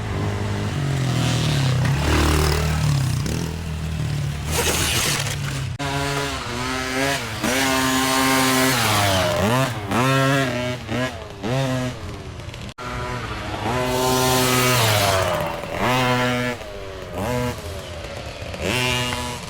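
Dirt bike engines revving up and down again and again as they ride the trail, the pitch rising and falling every second or so.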